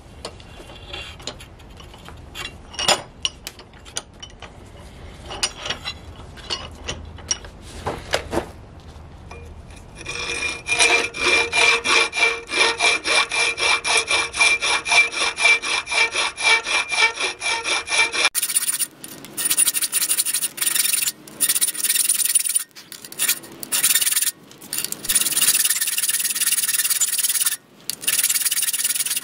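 Hand file rasping back and forth on a spring-steel knife blank. There are scattered light scrapes at first, then even strokes of about three a second with a metallic ring from about ten seconds in. More than halfway through, the sound changes suddenly to a harsher, denser rasping with short pauses.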